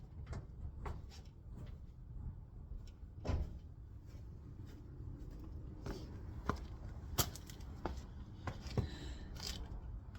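Scattered light knocks and clicks over a steady low rumble, with a sharper click about seven seconds in and another near the end.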